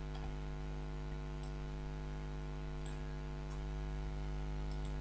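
Steady electrical mains hum with a buzzy stack of overtones, picked up by the recording setup, with a few faint clicks.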